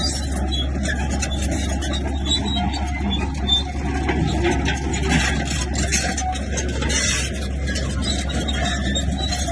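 Komatsu bulldozer working: a steady, low diesel engine sound under an irregular clatter and scraping of tracks and blade against dirt and stone.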